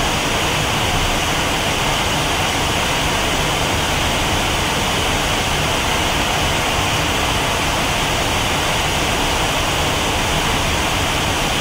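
Loud, steady roar of background noise that stays even throughout, with no separate knocks or tones.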